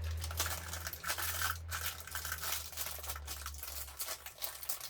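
Rustling and crinkling of packaging as parts are rummaged through in an RC kit box, in a run of irregular strokes. A steady low hum underneath stops about four seconds in.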